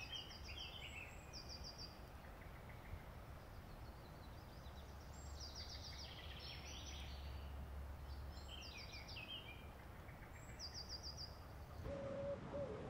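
Faint birdsong: several short songbird phrases, each a quick run of high repeated notes, over a quiet steady background hum.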